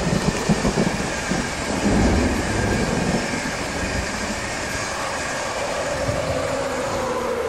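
An InterCity 225 electric passenger train passing at speed: wheels clacking over rail joints in the first second or so, then a steady rumble and rush of the coaches. Near the end a whine from the locomotive dips slightly in pitch as it goes by.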